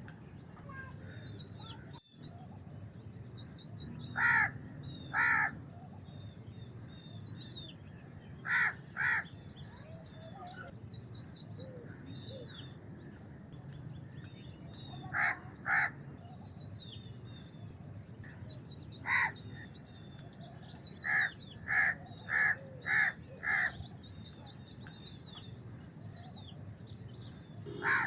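House crow cawing: short, harsh caws, some single and some in runs of two to five, a few seconds apart. Small birds chirp rapidly and continuously at a higher pitch behind them.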